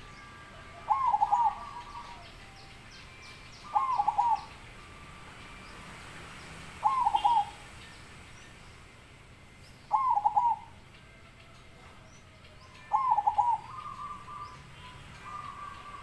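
A zebra dove (perkutut) cooing its song: a loud, clear phrase of a few quick notes repeated about every three seconds, five times. A few faint chirps from smaller birds sound in between.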